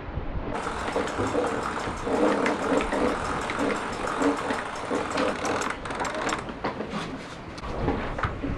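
Sailboat winch being turned, its pawls clicking rapidly, over the noise of the boat underway.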